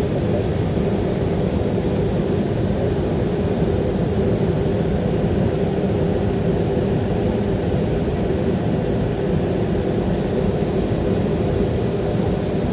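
Steady drone inside a Boeing 737-300 on the ground, its CFM56-3 jet engines running at low power, with a few steady low hums.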